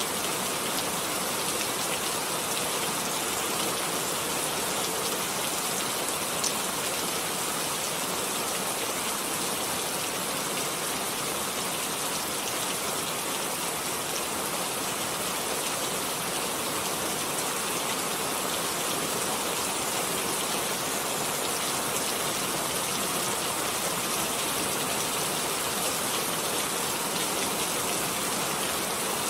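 Steady rain falling, an even hiss of many drops, with one sharper drop heard about six and a half seconds in.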